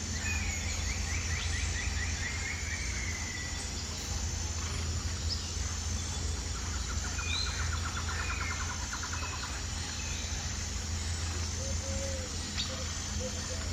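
Birds singing outdoors over a steady low rumble: two runs of rapid trills, with short chirps and whistles between them, and a faint steady high insect buzz behind.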